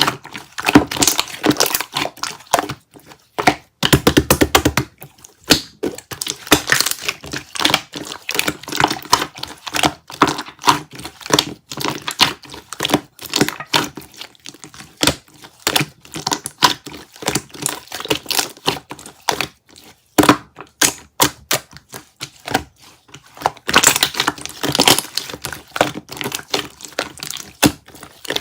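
Yogurt-textured slime being squeezed, poked and stretched by hand, making a quick, irregular run of wet clicks, pops and crackles.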